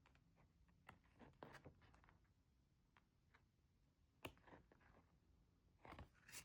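Faint, scattered rustles and light clicks of photo cards and album inserts being handled, over near silence.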